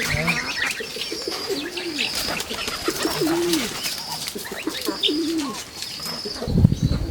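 Pigeons cooing over and over in low, rising-and-falling calls, with high thin chirps from other birds. A burst of louder low rustling noise comes near the end.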